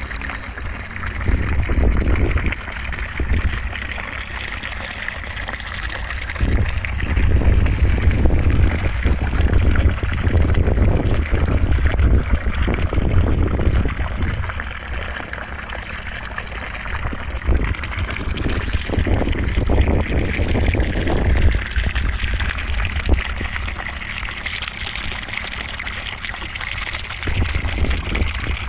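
Continuous rushing white noise for sleep, with a deep rumble underneath that swells and eases every few seconds.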